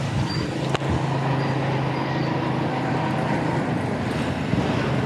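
Steady road traffic noise on a city street, with a single sharp click just under a second in.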